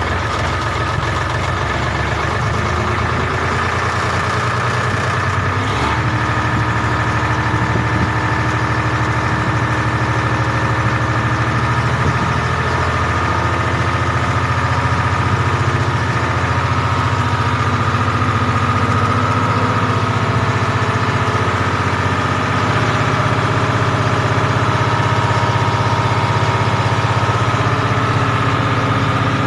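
Tractor diesel engine idling steadily, with a slight change in tone about six seconds in.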